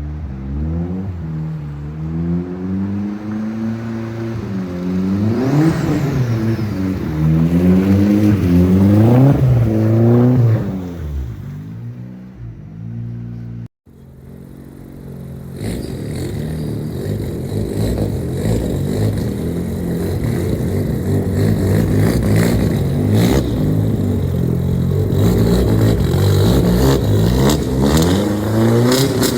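Big-turbo Audi B5 A4 running through a new 3-inch turbo-back exhaust with a Flow Monster muffler, revved several times with the pitch rising and falling. After a sudden break about 14 seconds in, the engine runs on with a steadier, rougher note.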